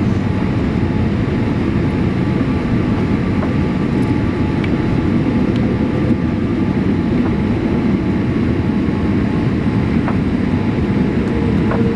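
Steady cabin rumble inside a Boeing 787-8 airliner: engine and airflow noise, with a few faint ticks. A steady hum comes in near the end.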